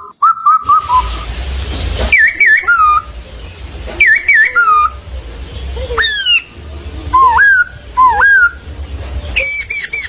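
A bird calling repeatedly: loud whistled notes that glide up and down, in short phrases every second or two, breaking into a fast run of short repeated notes near the end.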